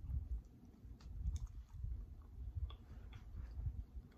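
Close-miked chewing of a bite of pizza: irregular soft low thuds about twice a second with small wet mouth clicks.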